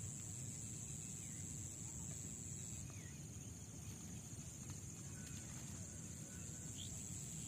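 Outdoor riverside ambience: a steady high-pitched drone and a low rumble, with a few faint bird chirps.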